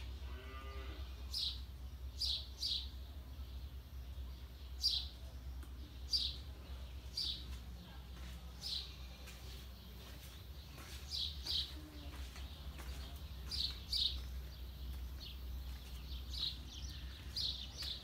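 A small bird chirping over and over, short high downward chirps about once a second, irregularly spaced.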